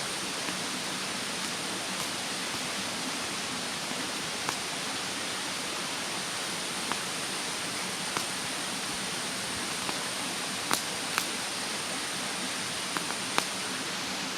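Wood fire crackling, with scattered sharp pops from the burning wood, the loudest few near the end, over the steady rush of a mountain stream.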